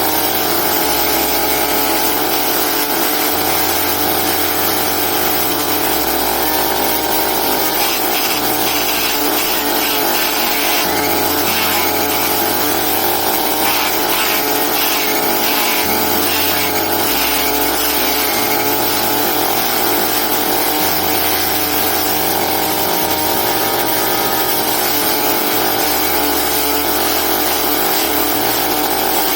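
Homemade motor-driven grass chopper running steadily, with an even mechanical hum.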